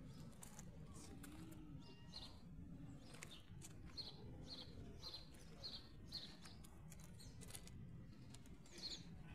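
A small bird chirping repeatedly: short, high chirps, about two a second through the middle stretch, faint over a steady low background rumble.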